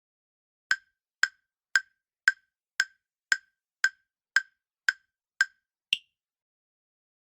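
Countdown timer sound effect ticking while the answer time runs out: ten sharp, identical ticks about two a second, then one last click that is higher in pitch.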